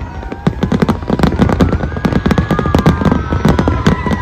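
Fireworks going off in a dense run of bangs and crackles, many a second.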